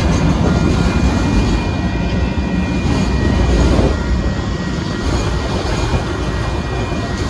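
Union Pacific freight train of autorack cars rolling past at a grade crossing: a loud steady rumble of steel wheels on the rails, with a faint thin high whine over it.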